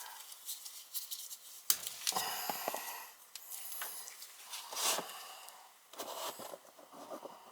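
Hands working with furnace wiring: scattered light clicks, rustles and scrapes as the wires are handled and marked for labelling.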